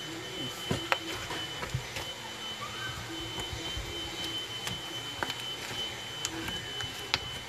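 Slime being mixed by hand: scattered sticky clicks and small pops as it is squished and folded, over a thin, steady high whine.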